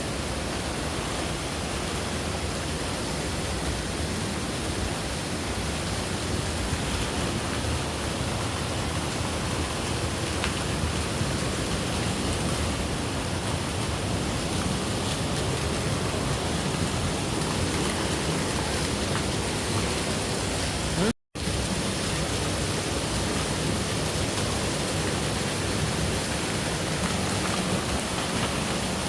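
Steady rush of water from a waterfall, cut off by a brief gap about two-thirds of the way through.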